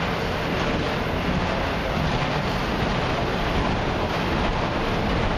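Autorack freight cars rolling slowly past: a steady rumbling rush of steel wheels on rail.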